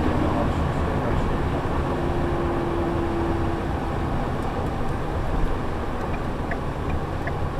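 Steady engine and road noise heard from inside a shuttle bus while it is driving. Near the end, a run of light, regular ticks starts.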